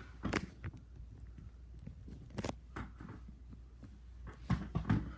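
A few short knocks and clicks, two about half a second in, one near the middle and a cluster near the end, over a low steady hum.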